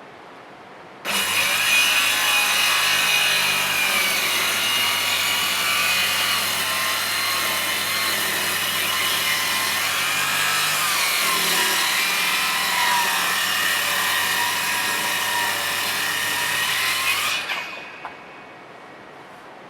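A power tool cutting under load, starting abruptly about a second in. Its whine sags during the cut and rises again just before it stops, about three seconds before the end.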